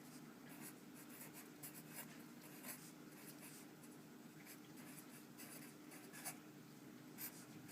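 Faint, irregular scratching strokes, like rubbing or writing, over a low steady hum.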